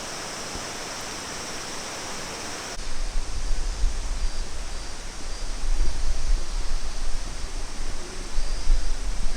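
Rushing water of a waterfall or stream, a steady hiss. About three seconds in, the sound changes abruptly to a louder, uneven low rumble that rises and falls, with the water still under it.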